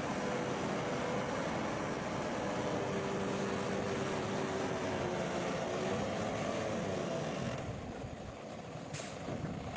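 Bulldozer's diesel engine running steadily under work, easing off about seven and a half seconds in, with a sharp click near the end.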